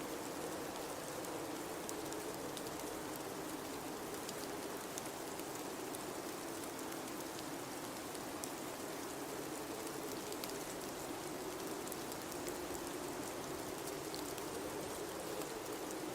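Blizzard wind blowing steadily, its low howl slowly swelling and easing, over an even hiss with faint scattered ticks.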